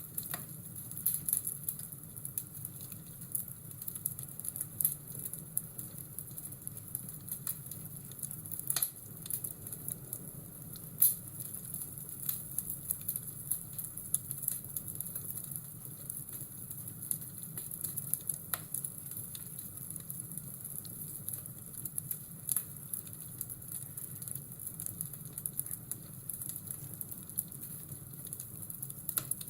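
Fireplace crackling, with irregular sharp pops over a steady high hiss.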